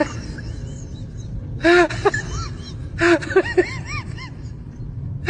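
Animal calls: two bursts of short, squeaky calls that rise and fall in pitch, several overlapping at different pitches, over a steady low rumble.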